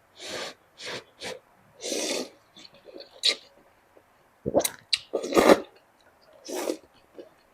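A person slurping spicy noodle soup close to the microphone: a series of short, irregular slurps and mouth noises, loudest just past the middle.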